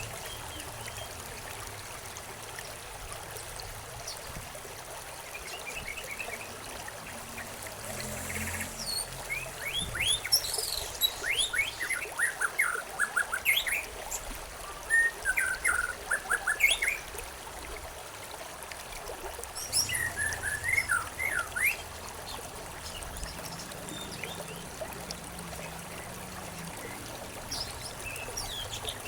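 Songbirds chirping in quick runs of short falling notes over the steady trickle of a stream. The chirping comes in clusters, busiest about a third of the way in and again near two-thirds, while the water runs on unchanged.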